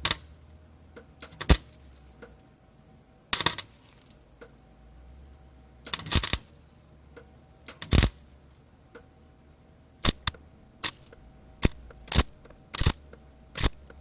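MIG welder on very low settings laying short tack welds on thin sheet-steel trunk panel to fill rust holes: a string of brief arc crackles, a few well apart, then coming quickly, about two a second, in the last few seconds.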